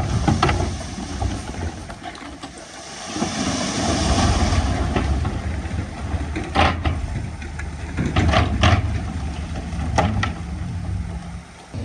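Diesel engine of heavy earthmoving machinery running, with a burst of hiss a few seconds in and several sharp knocks in the second half.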